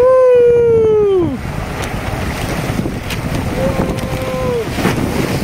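Rushing white water as a raft runs a rapid, with two long whoops of excitement, each held and then falling away in pitch: a loud one right at the start and a weaker one about three and a half seconds in.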